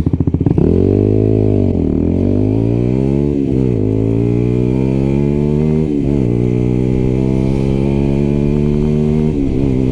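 125 cc single-cylinder motorcycle engine accelerating hard and shifting up through the gears: the engine note climbs, drops at each shift about two, three and a half and six seconds in, then holds a steady high cruise.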